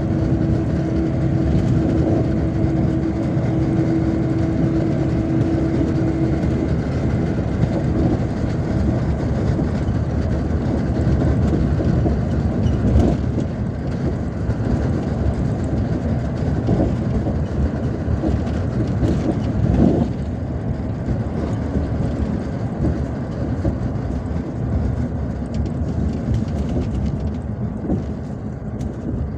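Inside a MAZ-257 bus on the move: steady engine and road rumble, with a droning tone for the first several seconds that then fades out, and a few knocks from the body. It gets somewhat quieter near the end.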